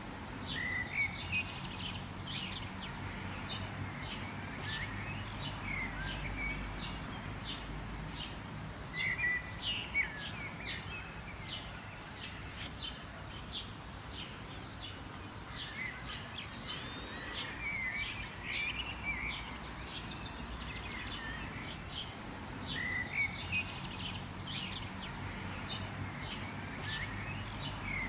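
Wild birds chirping and singing: quick high chirps keep coming throughout, with louder warbling phrases every few seconds, over a low steady background rumble.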